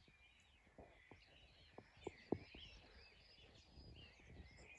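Faint birdsong, several small birds chirping and twittering together, with a few short clicks about two seconds in, one of them sharper than the rest.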